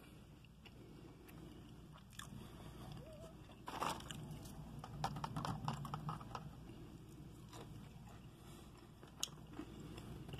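A person biting and chewing crunchy breaded fried clam strips close to the microphone, with the loudest crunches about four seconds in and again between five and six and a half seconds in, and a sharp click near the end.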